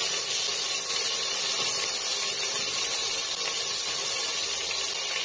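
Potato, soya chunks and pumpkin frying in hot mustard oil in a pressure cooker, a steady sizzling hiss.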